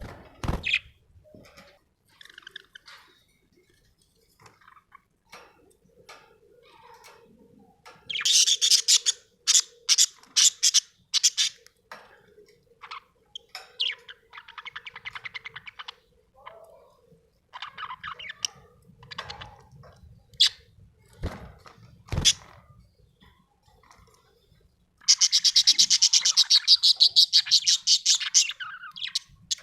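Budgerigar chirping and chattering in bursts, with loud runs of rapid chirps about eight seconds in and again near the end. Two sharp taps sound about two-thirds of the way through.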